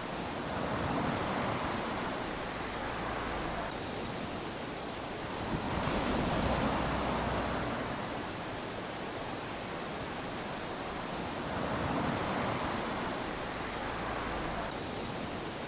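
Small waves lapping onto a sandy beach: a steady wash of surf that swells three times, about every six seconds, as each wave runs up the sand and draws back.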